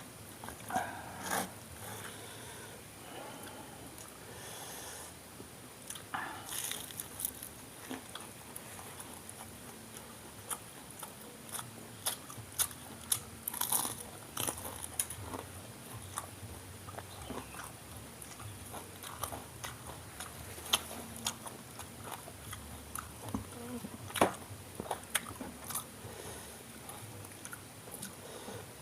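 Close-up crunching and chewing as a person bites into and eats crispy Indonesian fried snacks (gorengan: fried tofu and tempeh), with irregular crackly bites and a few louder snaps.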